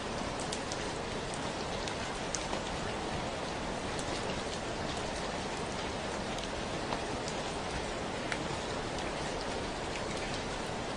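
Steady gentle rain falling, a continuous hiss with scattered distinct drip ticks of individual drops.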